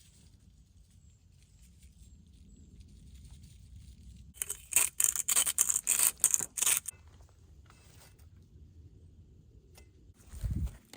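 A quick run of about a dozen sharp, rasping scrapes lasting a little over two seconds, followed near the end by a short low thump.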